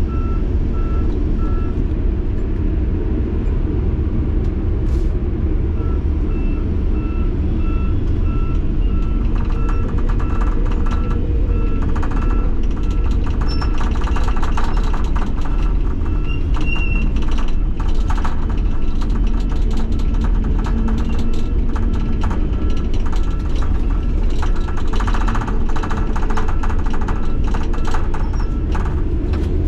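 Kenworth T800 dump truck's diesel engine running steadily while the truck backs up with its lowboy trailer, its backup alarm beeping at an even pace. The beeping stops about two seconds in and starts again a few seconds later, carrying on to the end.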